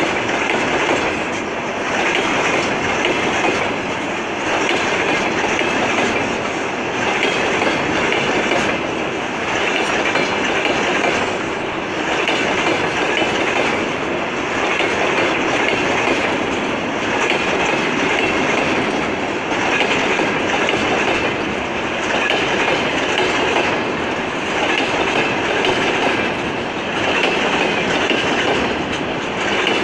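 Freight train of tank cars rolling past, the wheels clattering over rail joints in a regular beat about every two seconds.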